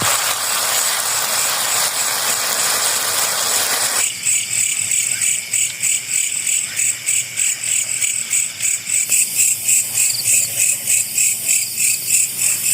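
A steady hiss for about four seconds, then a sudden change to night insects chirping in a high, pulsing rhythm of about three pulses a second.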